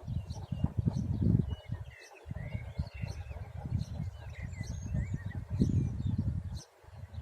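Gusts of wind buffeting the microphone with an uneven low rumble that drops out briefly twice, while small birds chirp and whistle throughout.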